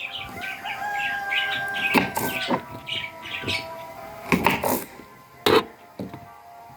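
Rapid high chirping, typical of small birds, over long steady tones, broken by several sharp knocks. The loudest knock comes about five and a half seconds in.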